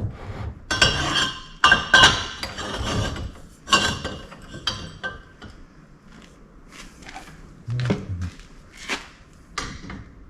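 Metal striking a steel exhaust pipe that is being worked back into round: a few loud ringing clangs in the first four seconds, then lighter clanks and knocks.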